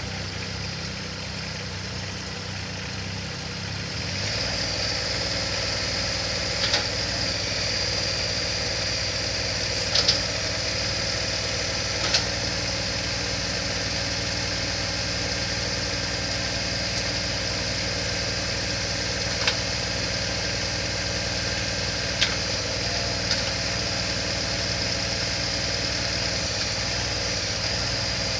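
Yanmar SA424 compact tractor-loader-backhoe's diesel engine running steadily. About four seconds in it gets louder and a steady high whine joins it, and a few sharp clicks sound at intervals.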